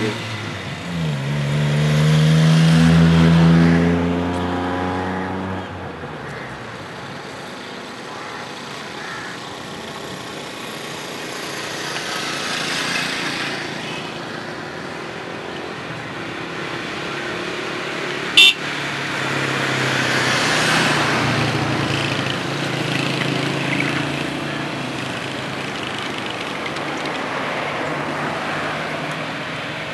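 Car engines running at a drag-race start line: a car accelerates up with a rising engine note in the first few seconds, then the engines of a Daihatsu Cuore, fitted with a K&N air filter and a hand-made intake manifold, and a stock Honda Civic VTi Oriel run side by side, with a swell of revving about twenty seconds in. One short, sharp sound comes about 18 seconds in.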